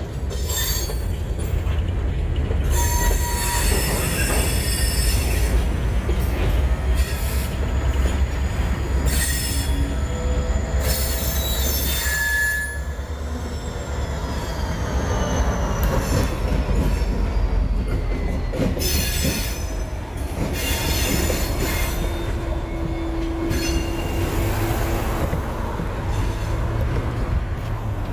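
A slow-moving freight train rolling through a grade crossing, its steel wheels squealing shrilly on and off over a continuous low rumble. About halfway through, the CSX GP40-2 diesel locomotive passes close by.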